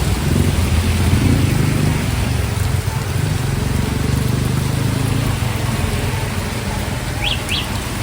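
Heavy rain hissing steadily while a motor vehicle's engine rumbles close by, easing off after about five seconds. Near the end come two short, high, rising chirps.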